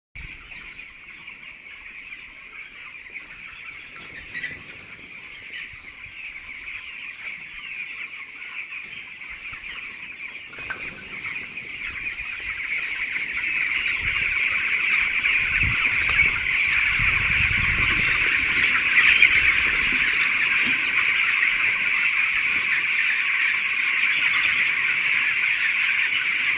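A flock of chickens calling together in a dense, continuous chatter of overlapping clucks and peeps. It grows much louder about halfway through.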